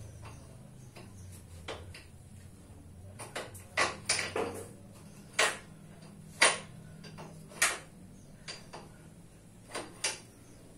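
A string of sharp, irregular knocks and clicks from hand work on parts, about seven spread unevenly over several seconds, over a faint low hum that fades out near the middle.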